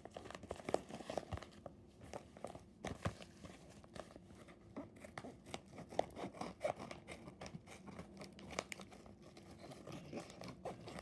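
Packaging being handled and opened, with irregular crinkling, tearing and small clicks throughout.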